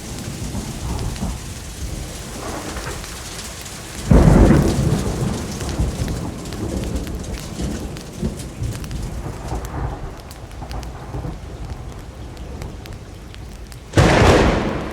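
Steady rain with a sudden thunderclap about four seconds in that rumbles away over a couple of seconds, and a second clap of thunder breaking near the end.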